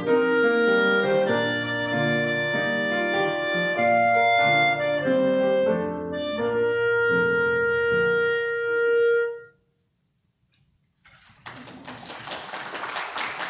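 Clarinet playing a melody with piano accompaniment, ending on a long held note about nine and a half seconds in. After a short silence, the congregation applauds.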